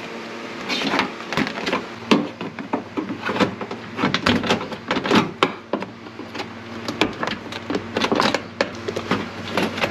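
Interior door panel of a 1991 Nissan Hardbody being pried off, its plastic trim clips popping and the panel knocking and rattling against the door in many irregular clicks and knocks.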